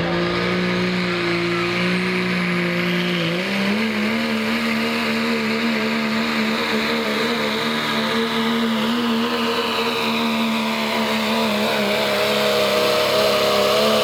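Pro stock diesel pickup engine running at full power under load while pulling the sled. Its pitch steps up about three and a half seconds in, holds steady, then climbs slowly near the end.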